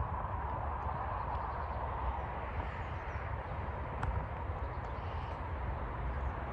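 Outdoor ambience: a steady low rumble and hiss with faint bird calls, and a single click about four seconds in.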